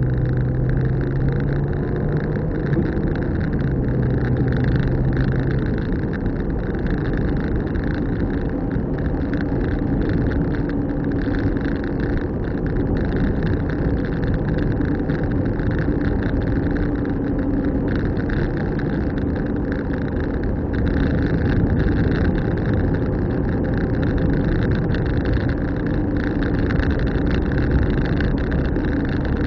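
Car driving along steadily, heard from inside the cabin: constant road and tyre noise with a low engine hum. The hum fades about six seconds in and a slightly higher one comes in later.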